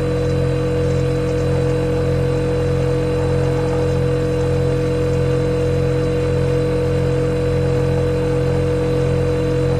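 Refrigerator running with a steady hum: a clear, constant tone over a low drone, with no change in pitch or level.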